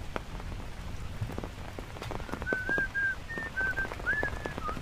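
Rain falling, with big drops ticking irregularly close by. About two seconds in, a run of short, clear whistled notes begins and goes on for about two seconds.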